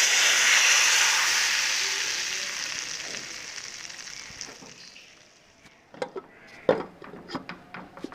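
Hot ghee tempering with fried garlic, chillies and cumin hitting a pot of cooked lentils, sizzling loudly and then dying away over about five seconds. Several sharp knocks follow near the end.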